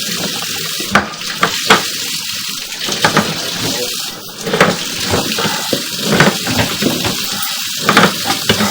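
Water running and splashing with a steady hiss, broken by frequent sharp clicks and knocks.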